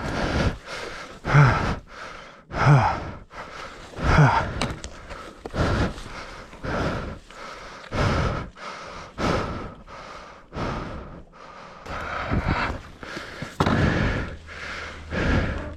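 A person breathing heavily and hard, a deep breath about every one and a half seconds, out of breath.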